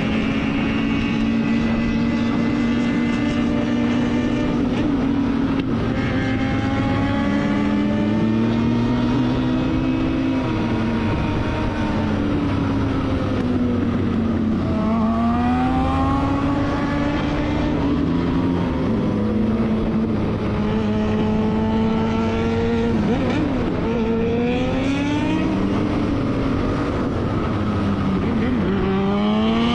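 Motorcycle engine running under load for the whole stretch, its pitch rising and falling with the throttle, with several quick rising sweeps of revs.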